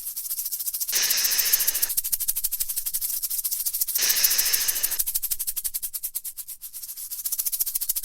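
Rattlesnake's tail rattle buzzing continuously as a fast, dry, high-pitched rattling, swelling louder twice, about a second in and about four seconds in: the snake's warning to back off.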